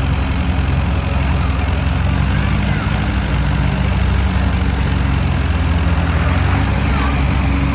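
Tractor engine running steadily at low speed, a constant low hum.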